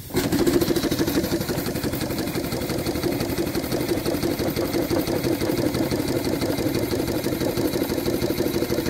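Small homemade single-cylinder steam engine starting abruptly about a quarter second in, just after its reversing lever is set, then running steadily on low steam pressure with a fast, even mechanical beat.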